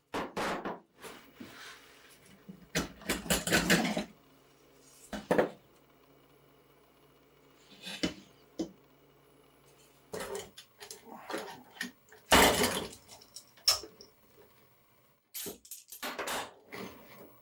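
Irregular metallic clanks and knocks from hand work on the steel pedal car's wheel and axle parts, with a loud clank about three and a half seconds in and another near the middle.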